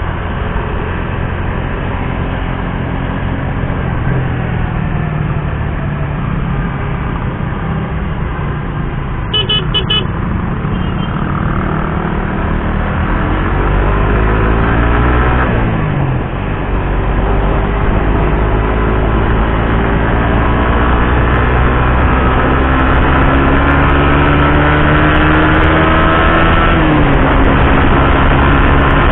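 Suzuki GSX-R150's single-cylinder engine under way. Its pitch climbs, falls sharply about fifteen seconds in, then climbs slowly again and drops near the end. A short horn toot sounds about nine seconds in.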